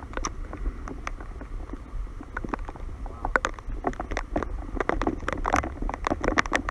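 Raindrops tapping irregularly on the camera's housing, over a low wind rumble on the microphone.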